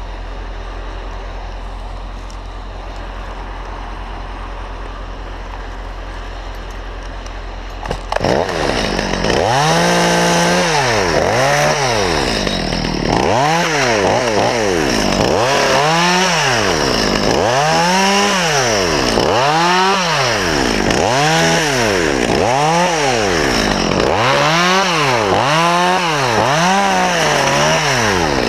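A steady low engine drone, then about eight seconds in a chainsaw starts and runs loud. Its pitch swings up and down about every two seconds as it is revved and eased off over and over.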